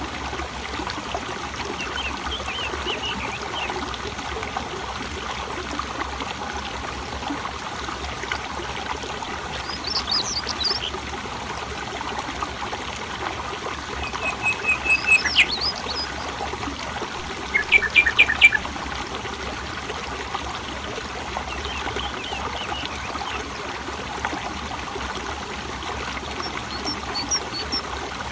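Water flowing and trickling steadily, with wild birds chirping and trilling over it at intervals. The loudest calls are a couple of quick trills about halfway through.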